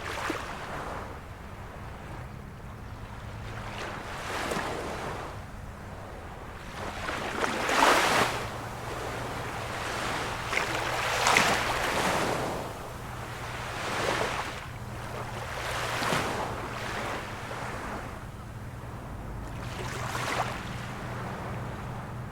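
Small waves of a calm sea washing in, the hiss of each one swelling and fading every few seconds, with a faint low steady hum underneath.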